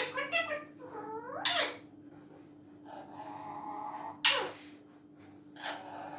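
Pet parrot calling in a string of short, meow-like calls that drop in pitch, the loudest a sharp one a little past four seconds in. A steady low hum runs underneath.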